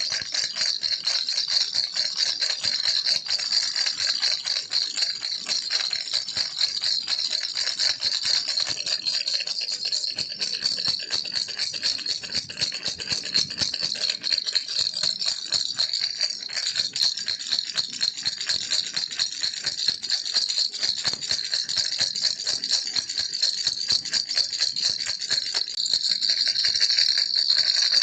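Baby rattle toy shaken continuously: a dense, rapid stream of bright, high clicks with no breaks.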